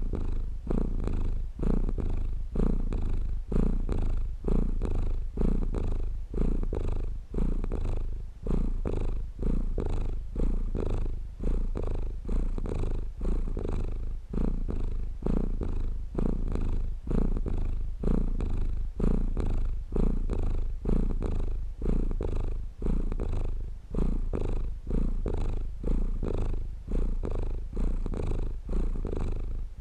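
Domestic cat purring close up, a continuous low rumble that swells and dips with each breath, about once a second.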